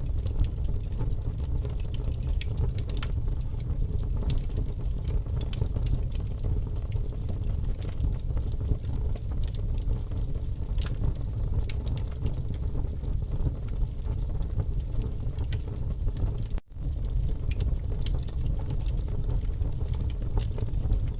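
Campfire burning, with scattered sharp crackles and pops over a steady low rumble. The sound cuts out for a split second about three-quarters of the way through.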